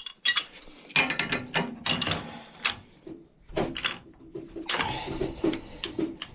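Metal clinks, clicks and scraping from a small wrench being worked on threaded gas pipe fittings, a string of irregular knocks.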